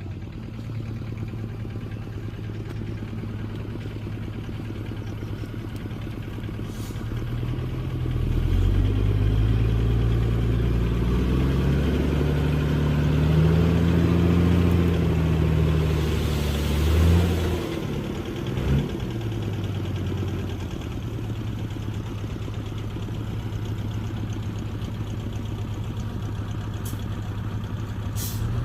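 Heavy diesel engine of earth-moving machinery running: a steady low drone, then revving harder from about eight seconds in with its pitch rising and falling for ten seconds, before settling back to a steady idle.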